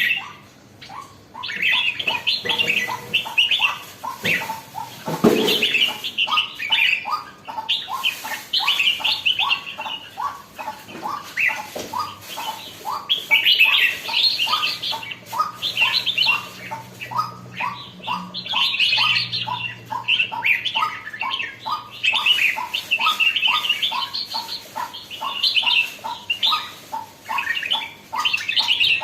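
Red-whiskered bulbul (burung jambul) singing in repeated bursts of chirpy, warbling phrases, a bird just coming into lively song. Under it runs a steady series of short repeated notes, about three a second.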